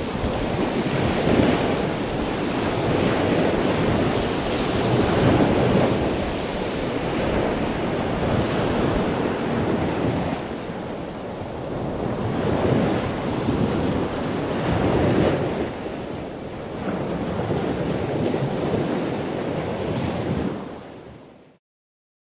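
Rushing noise like ocean surf, swelling and easing every few seconds, that fades out to silence near the end.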